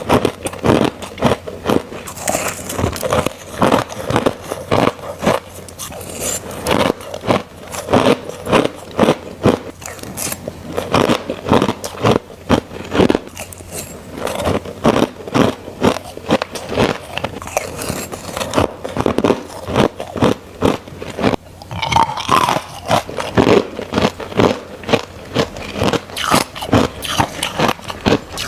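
Crushed ice being bitten and crunched close to the microphone, loud crunch after crunch at roughly two a second.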